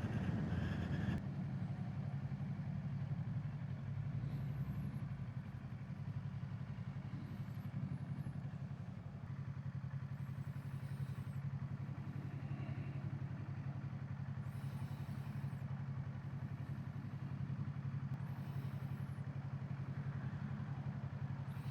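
Kawasaki Z650's parallel-twin engine idling steadily at a standstill, after a louder first second.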